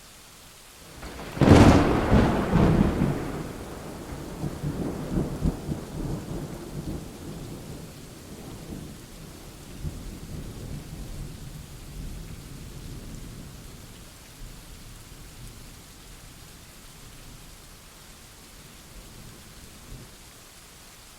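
A sharp, loud thunderclap about a second and a half in, rolling into a long rumble that fades away over the next ten seconds or so, over steady rain.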